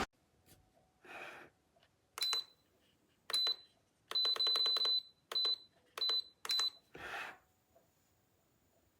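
Electric kettle's touch control panel beeping: short high beeps, each with a click, some single and one quick run of about six, after the loud boiling noise cuts off right at the start. Two soft rustling noises come about a second in and near the end.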